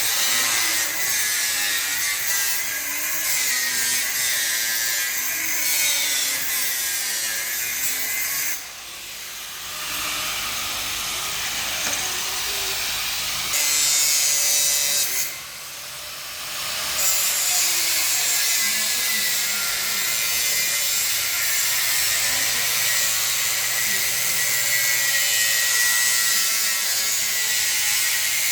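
Grinder cutting through 2 mm steel plate: a steady, high-pitched rasp that breaks off briefly twice, about a third and just over halfway through.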